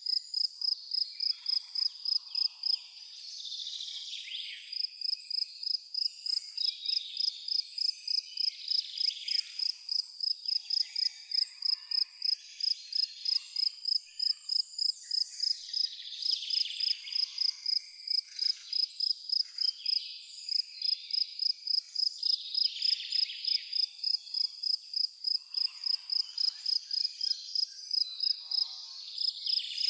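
A cricket chirping in an even, high-pitched pulse of about three chirps a second, pausing briefly about three seconds in, over a background of fainter insect chirps and trills.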